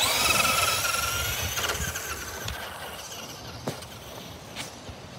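Traxxas Slash RC truck's motor and gears whining as it sets off at full throttle, the high whine starting abruptly and fading over about three seconds as the truck drives away. A few light knocks follow.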